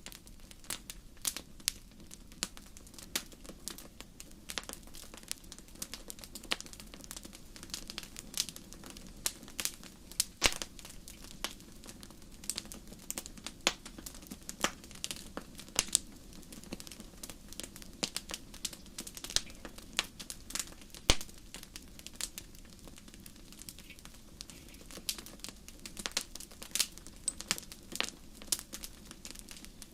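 Wood fire crackling in a fireplace: many irregular sharp pops and snaps over a low steady rumble of burning.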